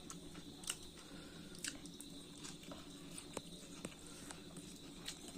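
Close-up mouth sounds of someone chewing chicken meat, with a handful of sharp, separate wet clicks and smacks a second or so apart.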